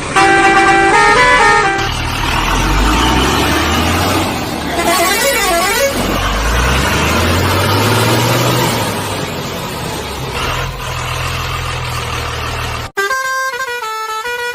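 Dubbed vehicle sound effects: a brief run of horn notes, then a low engine sound that revs up and down for about ten seconds, with a warbling horn-like tone about five seconds in. Near the end it cuts abruptly to a horn playing a stepped, tune-like series of notes.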